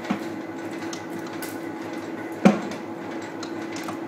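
Large Stanley gap-bed lathe running under power with its feed engaged, a steady mechanical hum. Two metallic clunks cut through it, a light one at the start and a louder one about two and a half seconds in.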